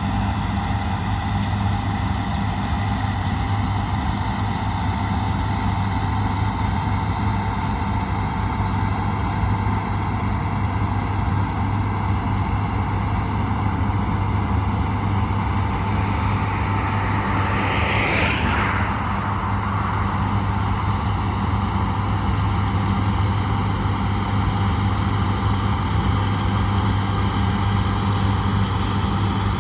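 Heavy farm machinery's diesel engine running steadily under harvest work. About eighteen seconds in there is a short swell of higher-pitched noise.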